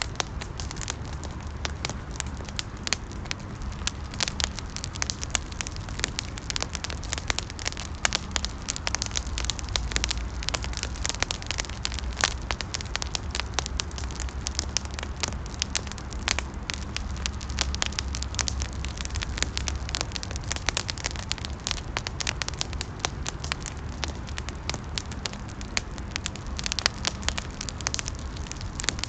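Wood fire in a fireplace crackling steadily with many small irregular pops, over a low rumble.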